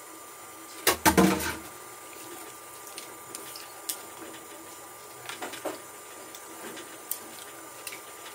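Chopsticks working fish pieces in a clay pot of broth: a cluster of loud knocks about a second in, then scattered light taps against the pot and fish with small wet liquid sounds, over a steady faint hiss.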